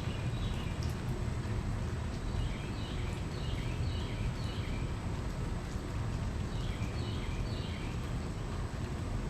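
Animal chirps, short and falling in pitch, come in clusters of three or four: once near the start, again about three seconds in, and again about seven seconds in. A steady low rumble of storm ambience runs under them.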